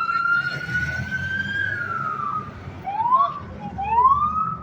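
Police car siren: a long wail that rises, holds and falls about two seconds in, then two short rising whoops near the end, over a low rumble.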